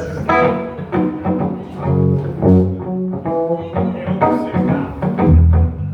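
Plucked string instruments, a bass among them, playing a run of single notes over low bass notes, with a strong low bass note near the end.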